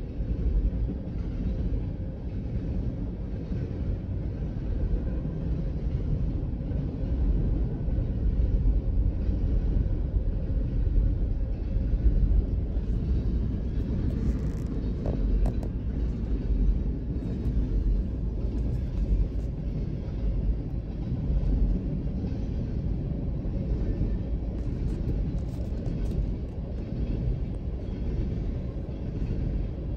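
Freight train's tank cars and boxcars rolling past: a steady low rumble of wheels on rail, heard through the windshield from inside a car, with a few faint clicks and rattles around the middle.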